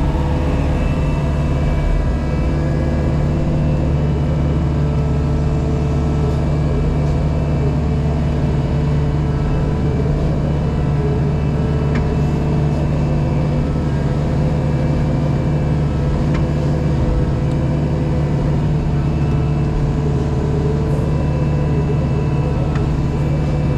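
JCB Pothole Pro's diesel engine running steadily, heard from inside the operator's cab.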